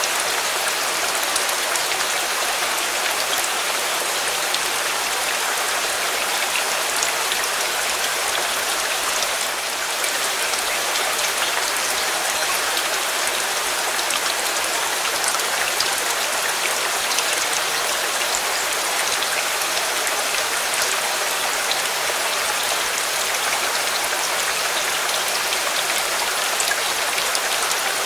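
Steady heavy rain, a dense even patter of drops hitting a surface, dipping slightly for a moment about ten seconds in.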